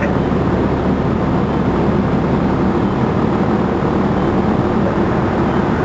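A vehicle engine running steadily at constant speed, a low even drone.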